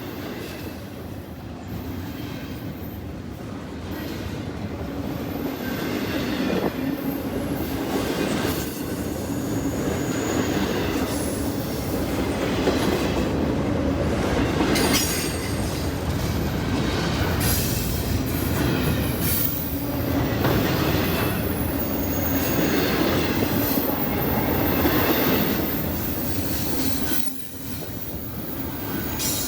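Freight train rolling past, its railcar wheels clacking over rail joints with short high-pitched wheel squeals. The sound grows louder over the first several seconds, then holds steady, with a brief dip near the end.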